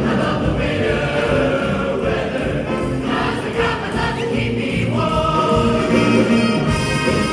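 School choir singing a Christmas song, many voices together with sustained notes.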